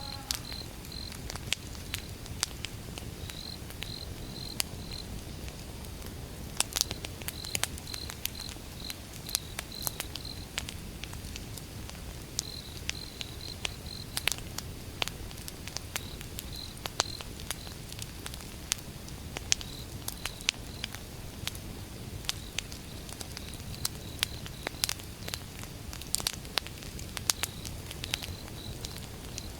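Wood fire burning: irregular sharp crackles and pops of the burning logs over a steady low rumble. An insect chirps in short repeated runs of high notes throughout.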